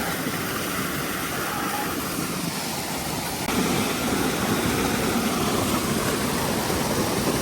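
Steady rush of a stream pouring over rock cascades, getting louder about three and a half seconds in.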